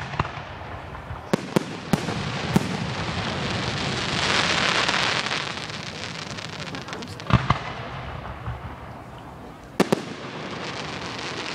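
Aerial fireworks bursting: a quick run of sharp bangs in the first few seconds, a hissing swell in the middle, then single bangs about seven and ten seconds in.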